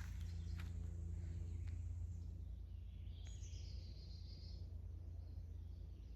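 Faint outdoor ambience: a steady low rumble on the microphone, a few footsteps in the first two seconds, and a short bird call about three seconds in.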